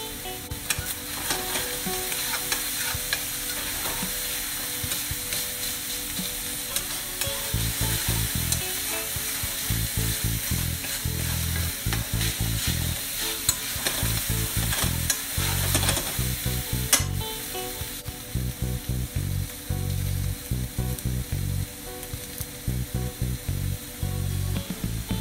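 Minced chicken sizzling in a hot frying pan, with a metal spoon stirring it and clicking and scraping against the pan. A single sharp knock about 17 seconds in.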